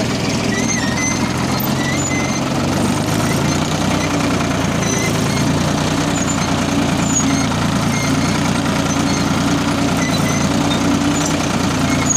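Ford 3600 tractor's three-cylinder diesel engine running steadily under load, pulling a cultivator with the lift down.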